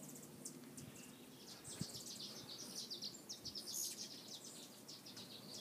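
Small birds chirping faintly: many quick, high, thin chips in busy runs over a light background hiss.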